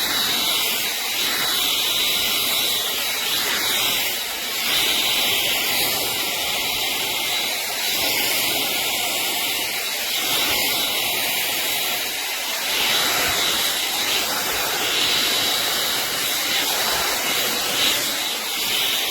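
LANDOT 3-in-1 hot air dryer brush running, a steady blowing hiss with a thin high whine, as it is worked through hair.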